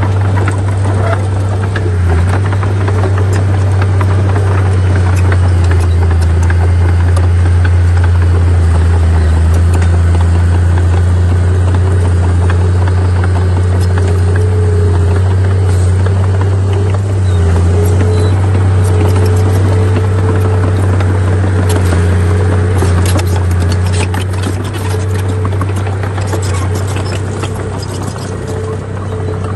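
A heavy diesel engine on earthmoving machinery runs steadily under load as a deep, loud drone. Scattered metallic clicks and rattles come in the last several seconds.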